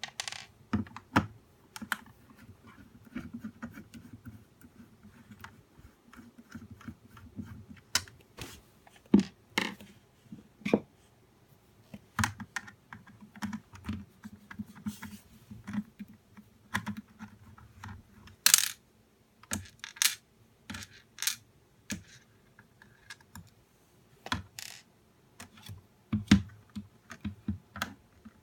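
Plastic casing and small parts of a nail dust collector being handled while it is taken apart, giving irregular clicks, taps and knocks. One sharper knock comes about two thirds of the way in.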